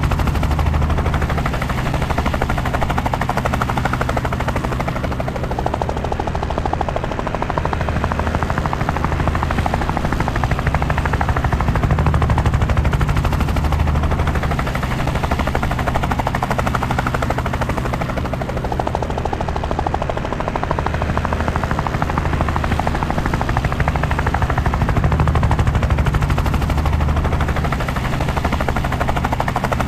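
Helicopter rotor and engine noise, a steady rapid blade chop that swells slowly in loudness now and then.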